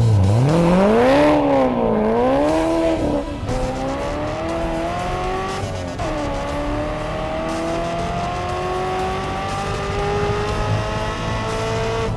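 Corvette race car engine revving up and down, then pulling hard through the gears, with shifts about three and six seconds in. The pitch climbs steadily in each gear.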